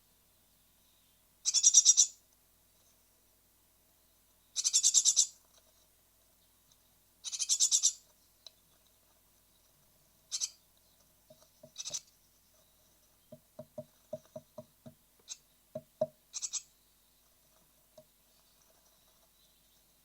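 Great tit nestlings ready to fledge, calling in the nest box: three loud, buzzy, rapidly pulsed calls, then several shorter high calls. Partway through, a quick run of about seven dull knocks sounds in the box.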